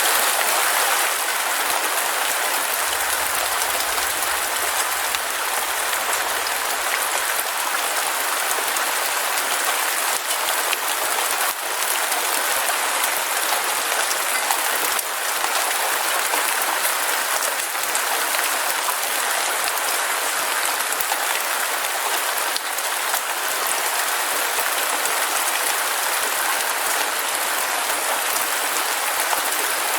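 Heavy rain falling steadily: a dense, even hiss with scattered individual drop impacts.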